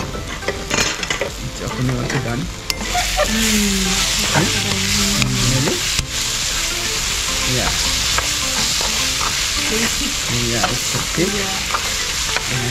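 Fermented soybeans (kinema) sizzling as they are stir-fried in a stainless steel kadai, with a metal spatula scraping and turning them against the pan. The sizzle grows louder about three seconds in.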